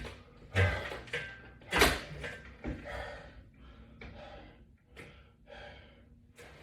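A man breathing hard in quick, noisy breaths, about two a second, as he exerts himself through ab crunches. There are two louder breaths with dull thuds about half a second and nearly two seconds in.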